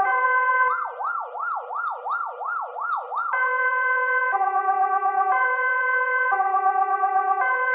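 Emergency vehicle siren: a two-tone hi-lo wail switching between two pitches about once a second, which changes under a second in to a fast rising-and-falling yelp for about two and a half seconds, then goes back to the two-tone.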